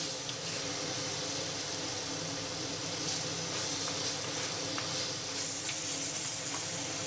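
Onion-tomato and ginger-garlic masala paste sizzling steadily in a little oil in a clay pot, with a few faint scrapes of the spatula as it is stirred. The paste is being sautéed until its raw smell cooks off.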